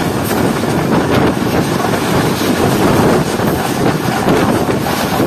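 Wind buffeting a microphone held out of a passenger train's window at about 95 km/h, over the steady running noise of the coaches on the rails.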